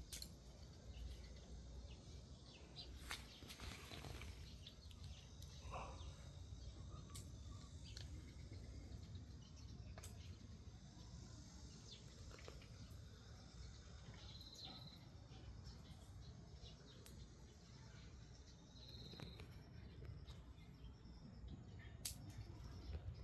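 Drying mung bean pods splitting open: sharp snaps a few seconds apart as the pods twist and fling out their beans, the loudest about 22 seconds in. A faint low background hum runs under them, with a couple of short high chirps.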